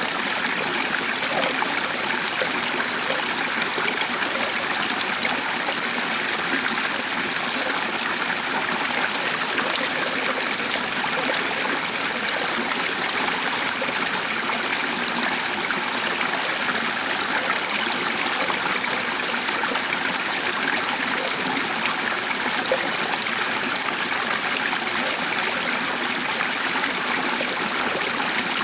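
A stream of running water flowing steadily, an even rushing sound with no break or change.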